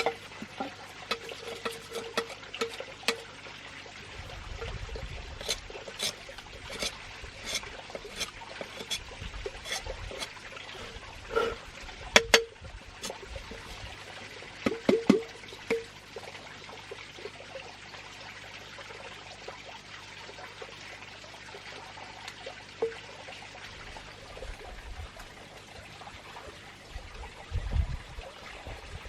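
Water trickling, with scattered sharp clicks and knocks through the first half.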